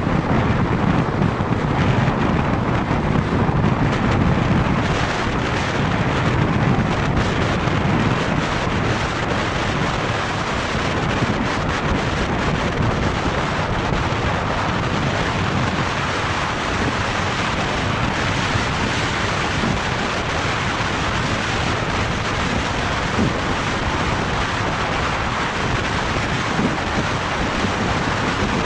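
Wind rushing over the microphone of a camera on a moving motorcycle: a loud, steady roar of noise with no clear engine note, heavier in the low end for the first few seconds.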